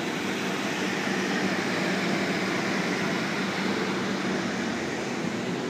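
Steady hum and rush of a stainless-steel double-deck electric train standing at the platform, its air conditioning and other onboard equipment running at an even level with a low drone underneath.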